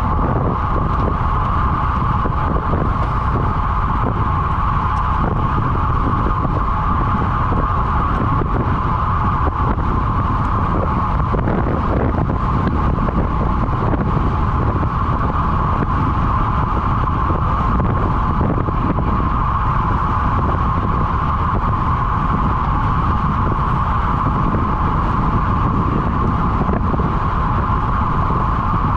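Steady rush of wind on the microphone of a road bike riding at speed, with a constant, unchanging whine above the rumble.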